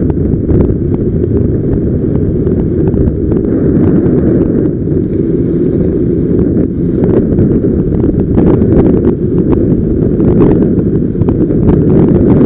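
Heavy wind rumble and buffeting on the microphone of a camera mounted on a moving motorcycle, with scattered crackles from the wind hitting the mic.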